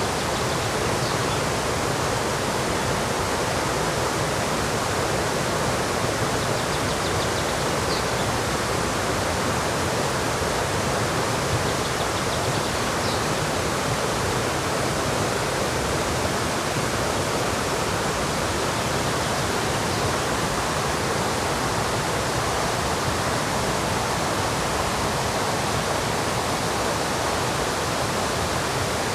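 River rapids rushing steadily, a dense unbroken roar of white water. A few faint high bird chirps come through it now and then.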